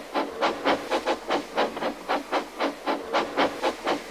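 Steam locomotive chuffing at a steady pace, a regular rhythm of exhaust puffs about four a second.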